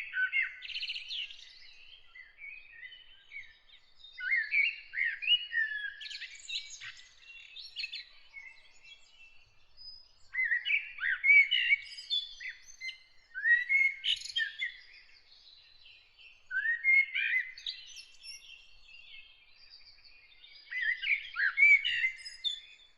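Songbird song: bursts of quick chirps and rising warbled notes, one to three seconds each and separated by short pauses, repeated about six times.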